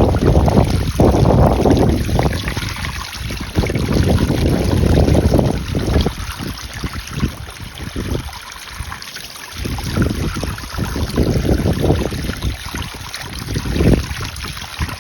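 Water from a garden hose splashing onto a hot, seized Briggs & Stratton flathead mower engine to cool it. Heavy wind noise on the microphone rises and falls over it.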